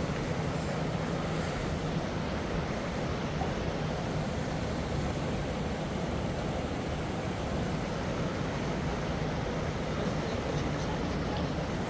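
A motor running steadily: a low hum under an even wash of noise, with no change in speed.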